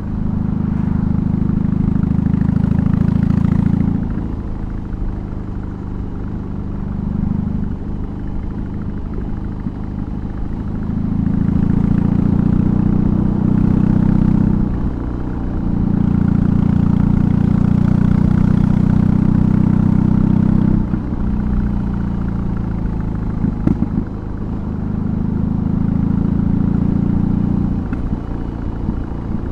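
BMW R18's 1802 cc boxer twin running through a custom exhaust on the move: the deep exhaust note swells loudly under throttle in four stretches of a few seconds each and falls back in between. A few short knocks come a little past the middle of the last quiet stretch.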